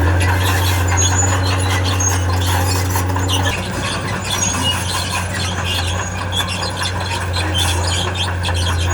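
Tracked heavy machine: a diesel engine running steadily, with repeated high-pitched squeaking from the crawler tracks. The engine note shifts a little about three and a half seconds in.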